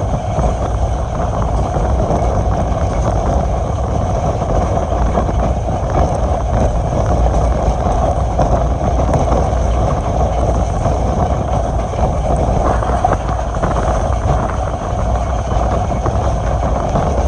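Passenger train running at speed along the line: a steady, loud rumble and rushing noise with no breaks.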